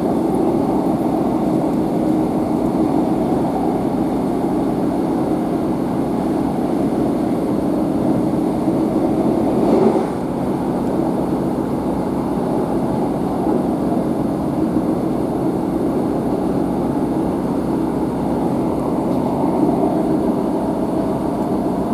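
Steady running noise heard inside the carriage of a Northern Class 150 diesel multiple unit: the underfloor diesel engine and wheels on rails, a deep even rumble. About ten seconds in it swells briefly, then settles slightly quieter.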